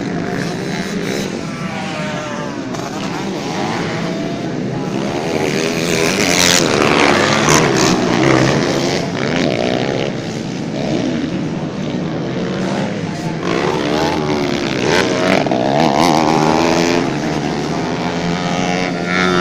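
Motocross bikes racing, several engines revving up and down as they accelerate and pass, louder twice during the stretch.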